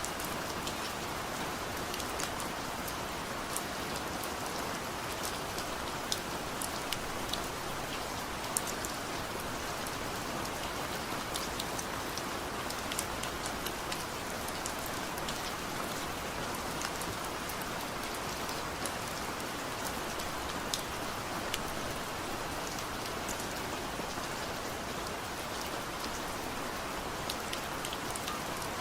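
Heavy rain falling steadily, a constant hiss with many sharp individual drop ticks scattered through it.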